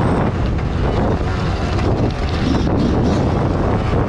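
Motocross bike engine running on the track, heavily buffeted by wind on the microphone.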